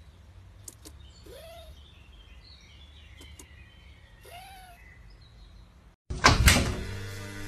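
A few short, faint animal calls, each rising then falling in pitch, with light clicks. About six seconds in, loud knocks and thuds start suddenly.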